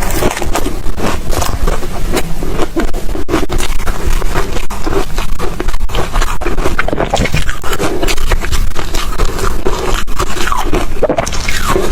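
Ice being bitten and chewed close to the microphone: a loud, continuous crunching made of many short cracks.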